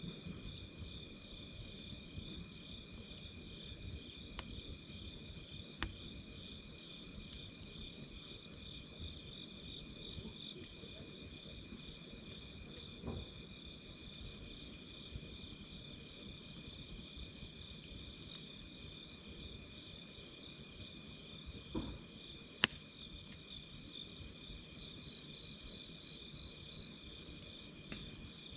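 Campfire crackling, with scattered sharp pops (the loudest about two-thirds of the way in) over a low steady rush. Behind it, insects chirp steadily in a continuous high pulsing trill, with an extra faster trill near the end.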